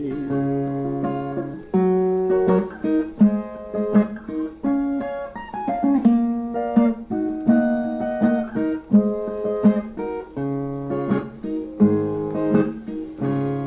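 Brazilian viola played alone in an instrumental interlude between sung verses, picking a steady run of single plucked notes over low bass notes.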